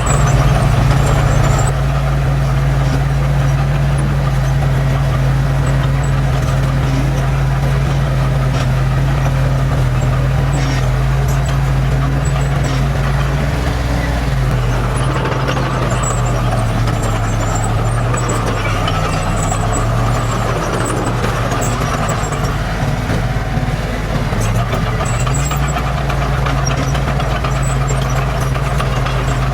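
Heavy diesel engine of earthmoving machinery running steadily under work. Its pitch wavers and dips as the load changes in the middle, then settles again.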